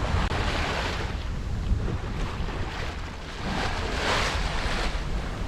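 Water rushing along a sailing yacht's hull under way, with wind buffeting the microphone in a low rumble. The hiss of the wash swells and fades twice, at the start and again around four seconds in.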